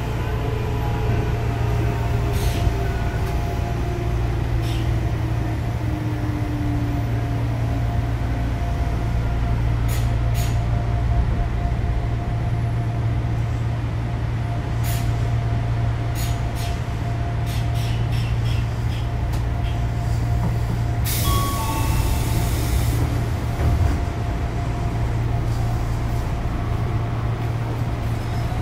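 Running sound of the Odakyu 8000 series chopper-controlled electric train: a steady low hum and a steady whine, with a motor tone falling in pitch over the first several seconds and scattered clicks from the wheels over the rail. A short burst of air hiss comes about 21 seconds in.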